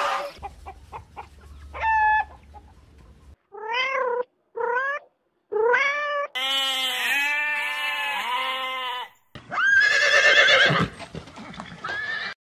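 A kitten meowing: three short meows that rise and fall, then a long run of overlapping meows. Near the end a horse whinnies, a loud wavering call.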